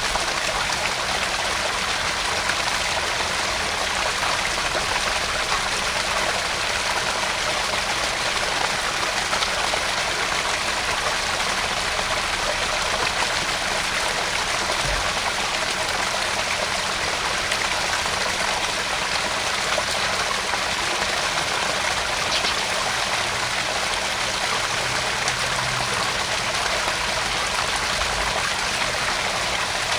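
Garden pond waterfall: water splashing and trickling continuously into the pond.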